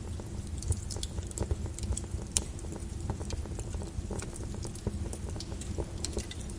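Flowing lava crackling and popping irregularly over a steady low rumble.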